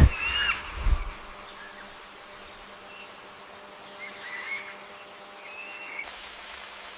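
A steady insect buzz, like a bee or fly, with short bird chirps over it and one sharp rising chirp near the end. Two low thumps in the first second.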